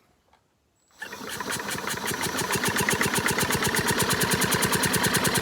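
Homelite XL-12 chainsaw engine being turned over for a spark test, starting about a second in: a fast, even run of ticks, roughly ten a second. It is the ignition firing again, a fat blue spark at the plug.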